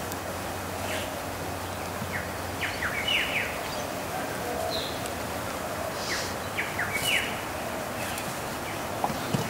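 Birds calling: two short bursts of quick downward-sweeping chirps a few seconds apart, over a steady outdoor background hiss, with a couple of sharp clicks near the end.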